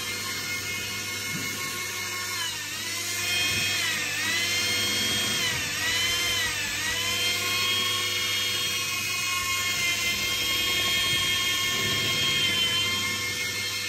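A high-pitched electric motor whine from construction machinery. Its pitch dips and recovers three times in the first seven seconds, then holds steady.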